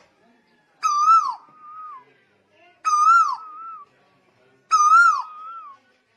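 A tuwu Lombok bird calling: three clear whistled calls about two seconds apart, each a note that rises then drops sharply, followed by a shorter, lower trailing note.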